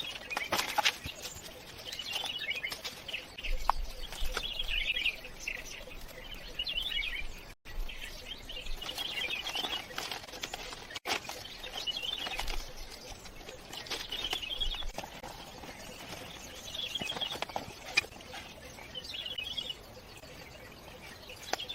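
A bird singing the same short chirping phrase over and over, about every two seconds, with scattered sharp clicks and taps.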